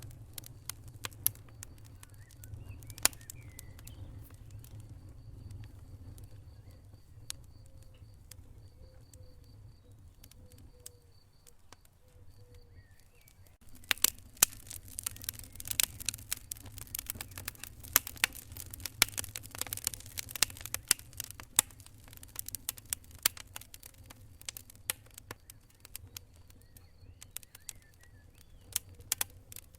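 Wood fire burning in a fireplace, with a low rumble of flame. Sparse sharp crackles and pops come in the first half, then a dense spell of rapid crackling begins about halfway through before thinning out again.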